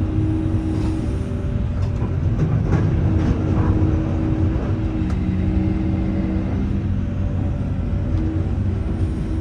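Jonsson 1208 mobile jaw crusher running with an excavator working beside it: a steady, heavy machine rumble with held engine tones, and a few faint knocks of rock now and then.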